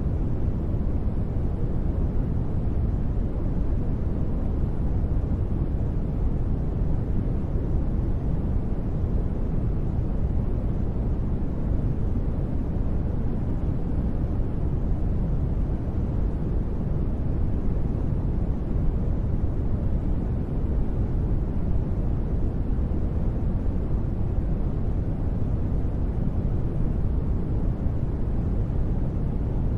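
Continuous sleep-noise track, a steady, even noise weighted toward the low end so that it sounds like a deep, soft rumble-hiss rather than a bright hiss, with no changes or sudden sounds.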